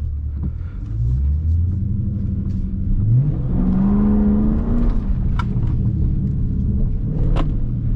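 Dodge Charger Scat Pack's 392 Hemi V8 revving under throttle to slide the car through a wet corner. Its pitch climbs twice, about one second and about three seconds in, and is held high for a second or two before easing back.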